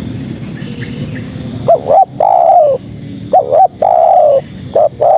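Spotted dove (tekukur) cooing: repeated phrases of two short notes and then one long arched coo, starting about a second and a half in over a low rumbling background. The call is given as a female calling males.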